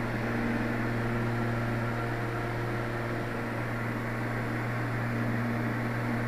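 Light aircraft's piston engine and propeller droning steadily in cruise, heard from inside the cockpit through a headset microphone: a constant low hum with a few steady tones above it.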